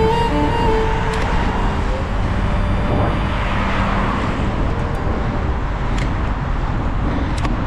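Steady city traffic noise heard from a bicycle on rain-wet streets: passing motor vehicles and tyre hiss, with a few light clicks.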